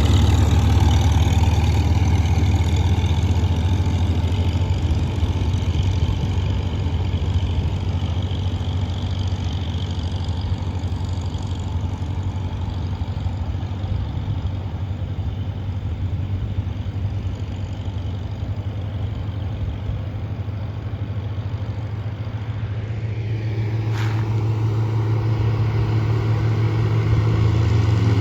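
Vintage tractor engine running at a steady low speed, its revs rising near the end.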